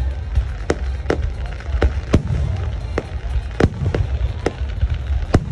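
Fireworks bursting: a rapid, irregular series of sharp bangs, about two a second, over a steady low rumble.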